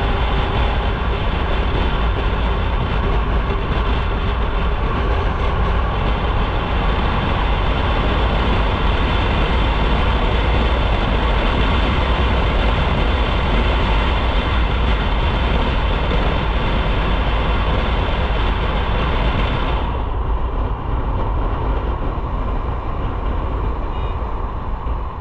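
Motorcycle riding on the road: a steady rumble of engine and wind noise on the microphone. The high hiss drops off sharply about twenty seconds in.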